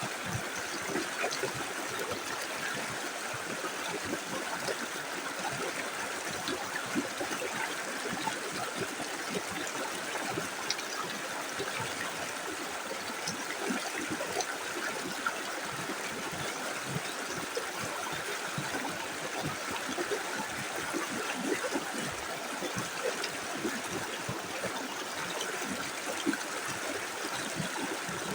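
Small river flowing steadily over stones, a constant rush of water with many small gurgles and splashes.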